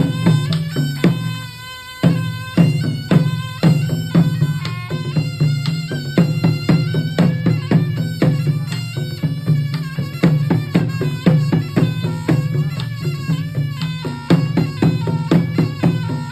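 Traditional Cham dance music: a shrill double-reed saranai shawm plays a melody over steady, regular hand-drum strokes. It drops briefly less than two seconds in.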